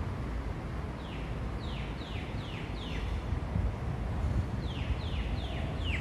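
A bird calling in two runs of short whistled notes, each note falling in pitch: five quick notes about a second in, then four more near the end. A steady low rumble runs underneath.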